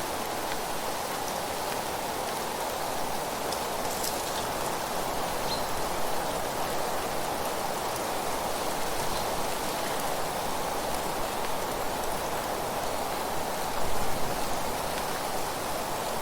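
Steady rushing wind with rustling of leaves, an even hiss that swells briefly near the end.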